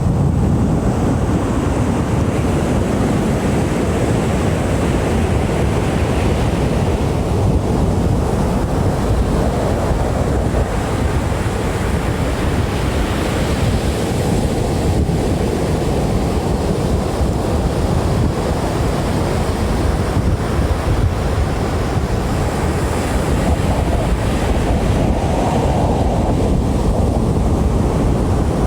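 Ocean surf on a beach: a steady rush of breaking waves that swells and eases every several seconds, with wind buffeting the microphone.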